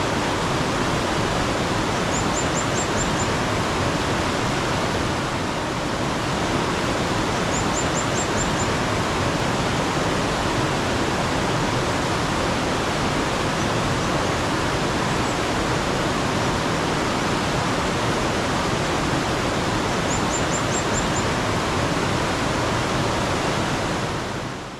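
Steady rushing and splashing of a mountain stream. Three times, a bird sings a short high trill of about six quick notes over it.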